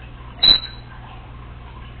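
Congo African grey parrot giving one short, sharp high chirp about half a second in, a click followed by a brief high tone, mimicking a smoke detector's low-battery beep.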